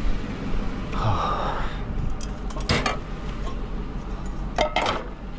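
A few sharp clinks and knocks of metal and glass household items being handled and moved, over a steady low hum.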